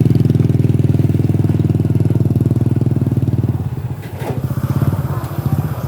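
A small engine running close by with a fast, even throb; about four seconds in it drops and slows, as if throttling back.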